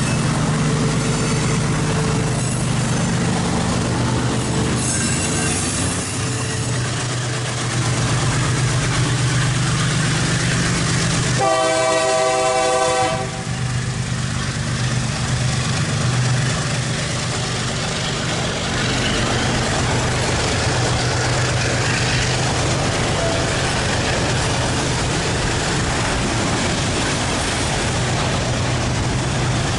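Diesel locomotive of a freight train running with a steady drone and rail noise, sounding a single horn blast of about a second and a half around eleven seconds in.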